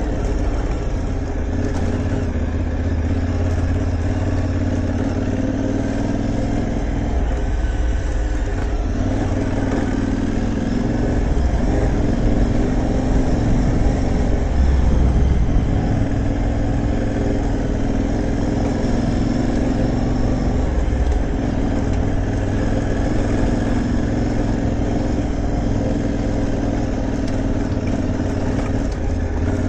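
Aprilia Tuareg 660 parallel-twin motorcycle engine running under way, steady with small rises and falls in pitch as it is ridden.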